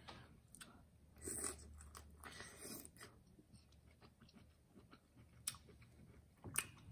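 Soft close-up eating sounds of seafood boil in sauce: chewing and wet mouth smacks, with a couple of sharp clicks near the end.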